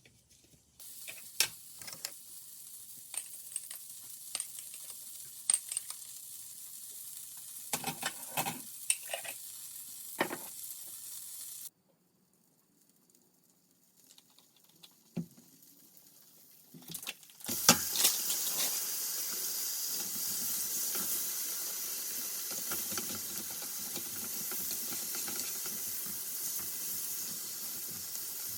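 Food sizzling as it fries in a pan, with clicks and taps of utensils against the pan. The sound cuts out abruptly about twelve seconds in, and after a few soft knocks a louder, steady sizzle starts about eighteen seconds in.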